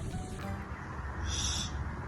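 A pet parrot gives one short, high call about one and a half seconds in, over a low rumble.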